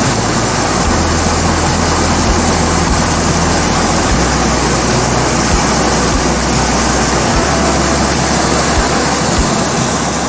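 Steady, loud rushing noise, with a low hum underneath that steps to a new pitch every second or two.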